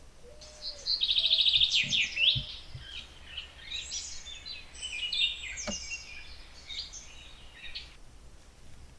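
A songbird singing: a fast, loud trill about a second in, then a run of varied high chirps and whistles that stops abruptly near the end. A single sharp click partway through.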